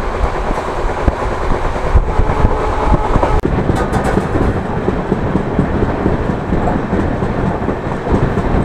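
Passenger train running noise heard from inside the coach: a steady, loud rumble of wheels on the track with scattered rattles and knocks. The sound breaks off briefly about three and a half seconds in, then carries on.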